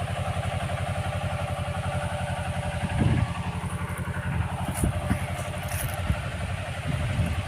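Small 24 HP tractor's diesel engine running steadily while working the soil, with a fast, even low pulse. A knock sounds about three seconds in, with light clattering later.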